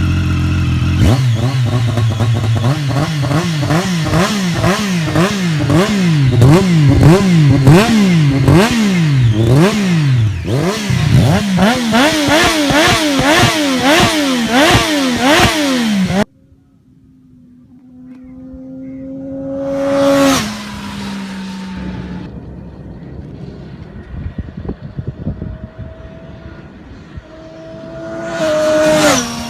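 Triumph Daytona 675R's three-cylinder engine revved repeatedly in quick blips, the pitch rising and falling about once a second. It cuts off suddenly partway through, and then an engine swells and drops in pitch as it passes by, twice.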